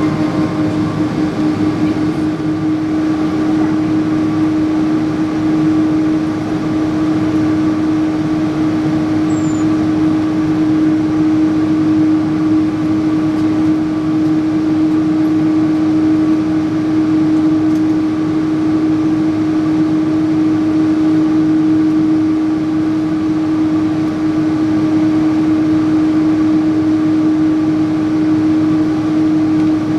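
Cabin noise inside a Boeing 777-300 airliner: a steady engine and air-conditioning hum with one strong, unchanging low tone and a fainter higher one above it.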